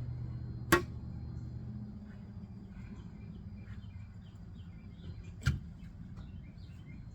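Small birds chirping in quick short calls over a steady low hum, with two sharp knocks, one about a second in and one about five and a half seconds in.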